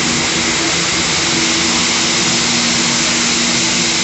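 Steady machine noise: a loud, even rush with a constant low hum, unchanging throughout.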